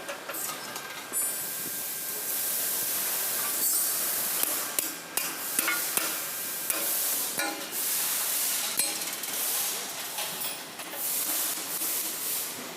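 Irregular metal knocks and clinks over a steady hiss, typical of hand-tool work on railway rolling stock.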